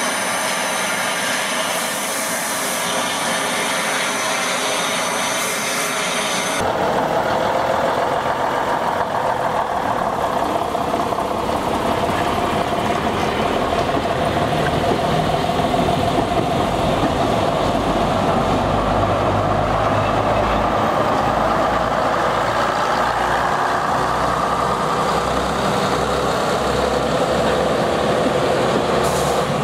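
Bulleid West Country class steam locomotive 34046 rolling slowly past a platform, with steady high squealing over the rumble. After an abrupt cut, a green first-generation diesel multiple unit's underfloor diesel engines running as the train pulls away, a steady whine over a low throb.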